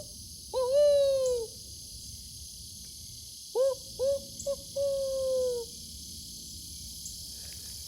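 An owl hooting: one long call that rises and then falls away, then a few seconds later two or three short hoots and a long falling hoot. Steady insect chirring goes on underneath.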